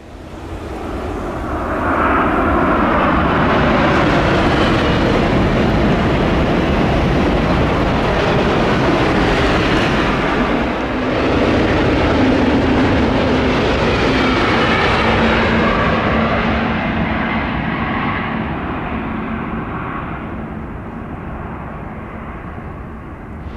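KTX high-speed train passing at speed on a viaduct: a steady rushing noise that swells up at the start, dips briefly near the middle and then slowly fades away.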